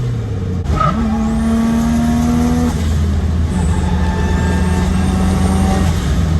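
Turbocharged drift car's engine pulling under throttle, with its pitch dropping and climbing again as it is driven. The pitch falls just before the start, climbs about a second in and holds, drops again a little before the middle, then holds high from about halfway until it falls once more near the end.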